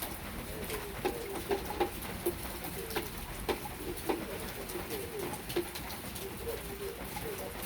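Steady rain with scattered drops tapping sharply on hard surfaces, and a dove cooing low and repeatedly over it.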